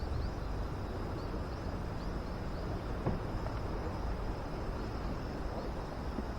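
Outdoor campsite ambience: a steady low rumble with a faint continuous high insect trill, and a single sharp click about three seconds in.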